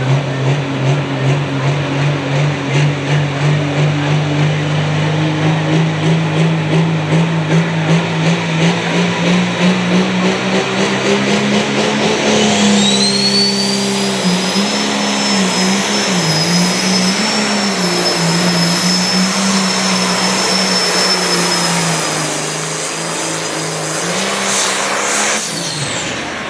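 Turbocharged diesel engine of a Limited Pro Stock pulling tractor under full load during a pull. The engine note climbs slowly, its loudness pulsing. About halfway through, a high turbo whistle rises and holds. Near the end the whistle falls away as the engine backs off.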